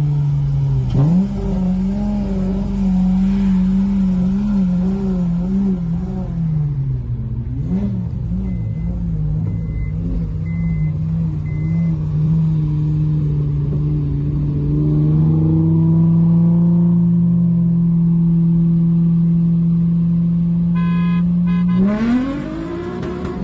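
Acura TL's V6 at full throttle in a roll race, heard from inside the cabin: the engine note climbs, drops at a gear change about seven seconds in, then pulls slowly and steadily higher for about fourteen seconds before the driver eases off near the end.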